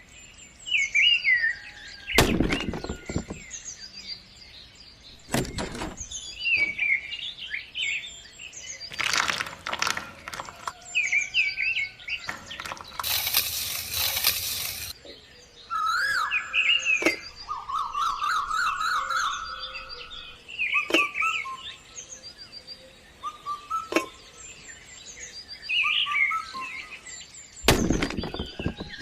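Small birds chirping and twittering on and off, broken by several short, louder knocks and clatters and a burst of noise lasting about two seconds near the middle.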